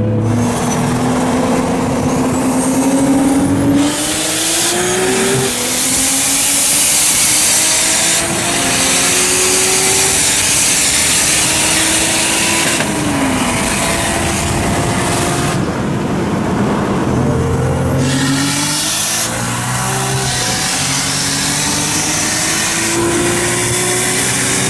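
Sports car engines accelerating hard through the gears: the engine pitch climbs and then drops back at each upshift, over heavy wind and road noise. The sound changes abruptly every few seconds where separate runs are cut together.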